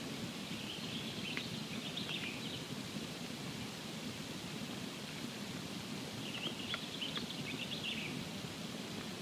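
Campfire burning with a steady low rush, with two short spells of faint, high-pitched crackling and sputtering: one about half a second in, one about six seconds in.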